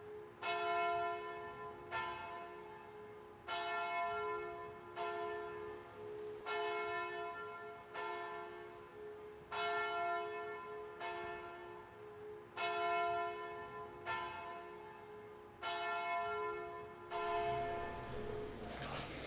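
A single church bell tolling slowly, about one strike every second and a half, each stroke ringing on and fading. The tolling stops a couple of seconds before the end.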